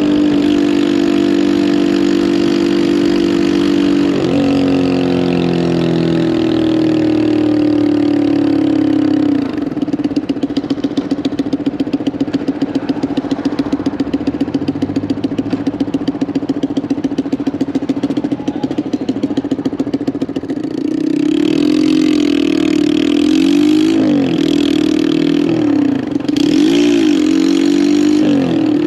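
Lifan KPM 200cc motorcycle's single-cylinder engine under way, then slowing, with the pitch falling for several seconds. It idles with an even pulse for about ten seconds, then revs back up, its pitch swinging up and down through the gears as the bike pulls away near the end.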